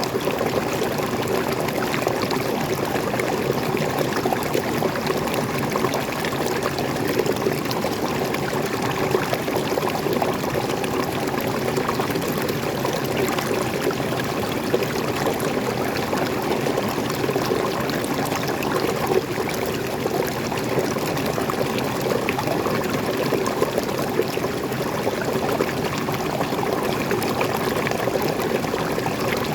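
Waterfall: water pouring and splashing steadily with a continuous even rush.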